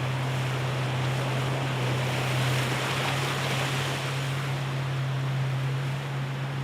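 Boat motor on a dugout canoe running steadily as a constant low hum, with the rush of water and wind under it.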